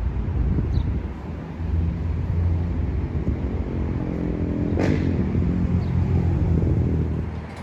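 Alstom Citadis tram running, a low rumble with a steady hum, and one sharp click about five seconds in. The rumble drops away near the end.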